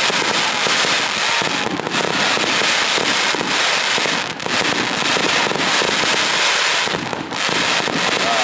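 Fireworks display going off: a dense, unbroken barrage of crackles and bangs.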